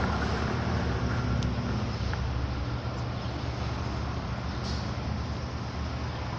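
Road traffic: a motor vehicle engine running steadily with a low hum, with a few faint clicks.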